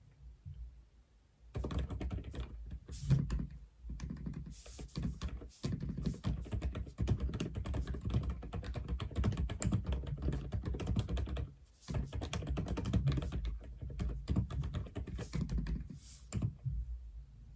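Typing on an Aula F87 (Dokgeomi) mechanical keyboard: fast runs of keystrokes begin about a second and a half in, with brief pauses near six and twelve seconds in.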